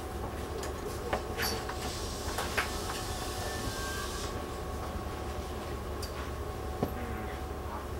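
Interior sound of a Taiwan Railway EMU700 electric commuter train: a steady low rumble with a faint steady tone and a few scattered light clicks and knocks in the car.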